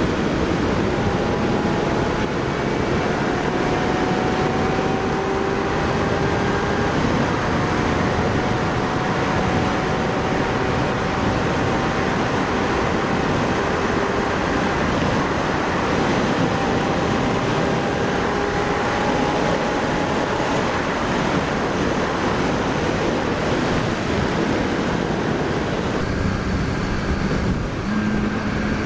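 Loud wind rushing over the microphone of a sport motorcycle riding at speed, with the engine's note faint underneath, climbing slowly as the bike speeds up. Near the end the engine note shifts to a different pitch.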